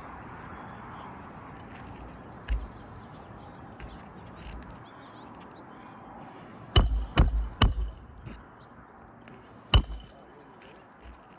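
Hammer striking roofing nails into a shingle: three quick blows past the middle, then one more about two seconds later, each with a short metallic ring.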